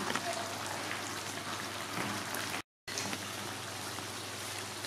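Steady rain-like hiss of fish pieces sizzling and simmering in lemongrass-paste sauce in a wok, cut by a brief dropout a little over halfway through.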